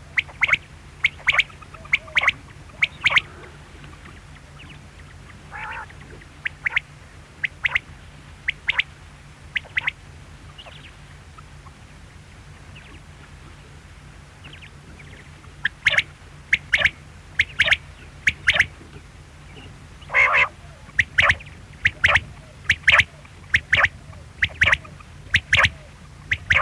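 Quail calling: repeated short, sharp call notes in quick groups of two or three, thinning out for several seconds in the middle before coming thick and fast again, over a steady low hum.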